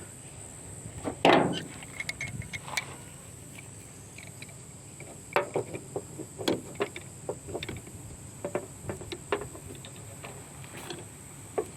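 Pliers and metal fittings clicking and knocking as an orifice tube is pulled out of a car's air-conditioning line: scattered sharp clicks, with one louder scrape about a second in. A steady high-pitched tone runs behind.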